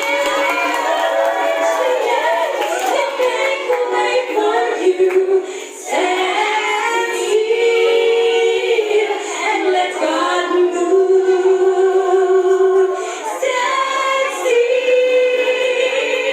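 Several voices singing a song together, choir-like, with little bass.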